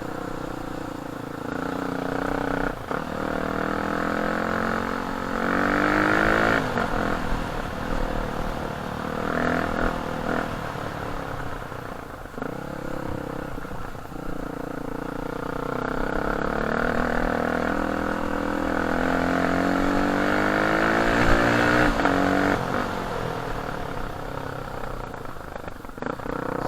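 Enduro dirt bike engine heard from on board while riding, revving and easing off. Its pitch climbs twice, once over a few seconds early on and again in a longer rise through the middle, dropping back in between, with a couple of sharp knocks along the way.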